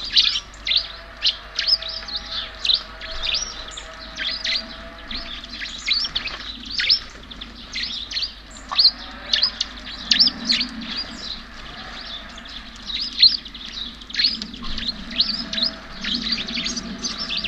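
Many small birds chirping at a feeder: a dense, continuous run of short high chirps, several a second, overlapping one another.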